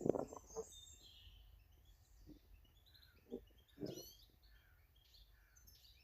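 Small garden birds chirping with short, high calls scattered throughout, close to a bird-feeder camera, with a few soft knocks near the start and again around the middle.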